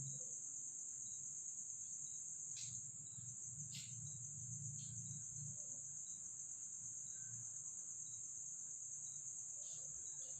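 Insects, likely crickets, chirring in a steady high-pitched drone, with a few faint clicks about two and a half, four and five seconds in.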